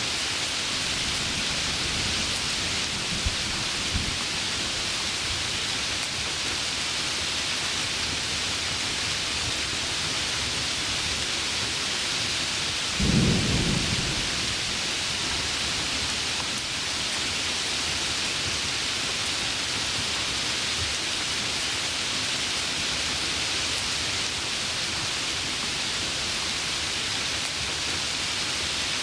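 Heavy rain pouring steadily, with one short, loud crack of thunder rumbling low about halfway through.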